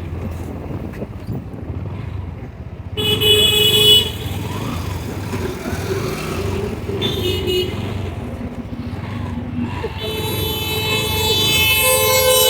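Vehicle horns honking in road traffic over a steady low rumble of traffic and the ride: a horn for about a second some three seconds in, shorter toots around seven seconds, and a long continuous horn blast from about ten seconds on.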